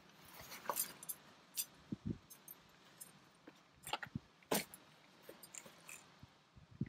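Irregular sharp clicks, taps and short rustles, a dozen or so, with no steady rhythm; the loudest comes about two-thirds of the way through.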